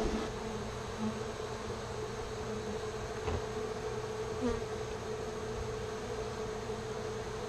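Honeybees from an opened feral colony buzzing as a steady mass, with a few single bees flying close past the microphone.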